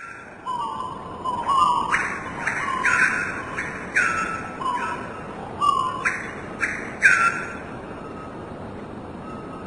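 A bird calling over and over in short calls, about a dozen in the first seven and a half seconds, then stopping, over a steady background hiss.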